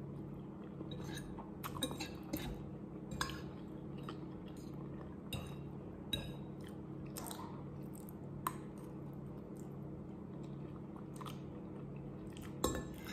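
Close-up chewing of instant pancit canton noodles, with small wet mouth sounds. A few sharp clicks of a metal fork against a ceramic plate, one about two-thirds of the way in and another near the end.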